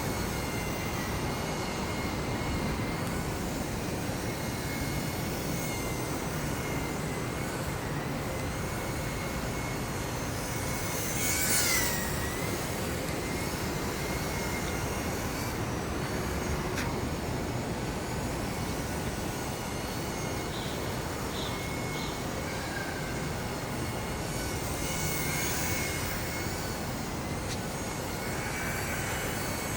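Thin, wavering whine of a JJRC M06 RC plane's small electric motor and propeller over steady wind rumble on the microphone. About eleven seconds in the plane passes close: the whine gets louder and drops in pitch as it goes by.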